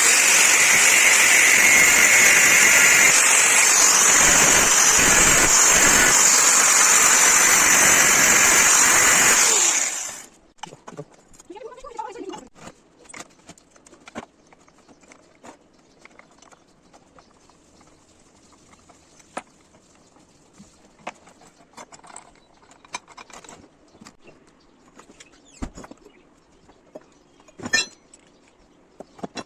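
A loud power tool runs steadily for about ten seconds and then stops. Quiet, scattered metallic clinks and knocks follow, with one sharper clank near the end.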